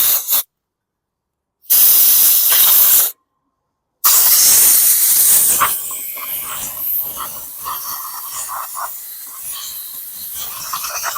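Three loud bursts of hissing, each one to two seconds long, then a quieter hiss broken by small clicks and knocks.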